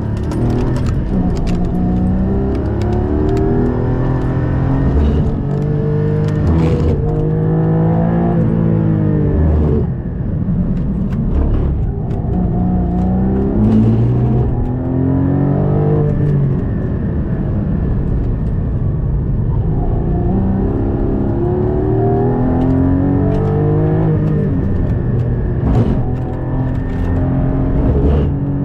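Porsche 718 Cayman GT4's 4.0-litre flat-six engine, heard from inside the cabin on track, revving hard: its pitch climbs steeply through each gear and drops at each shift or on braking, over and over.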